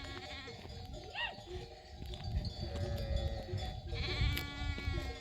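A flock of sheep with bells on: a short call about a second in, then a longer bleat about four seconds in, over the steady ringing of the bells.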